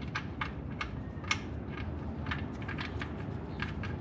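Irregular small clicks and taps as the oil pan's drain plug bolt is handled and started back in by hand, over a steady low rumble.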